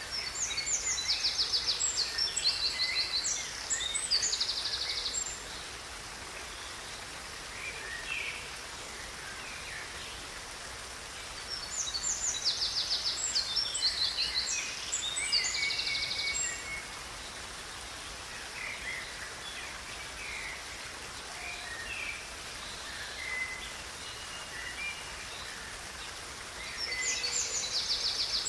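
A songbird singing loud phrases of rapid, high trilled notes three times, about twelve seconds apart, with softer chirps between, over the steady rush of river water.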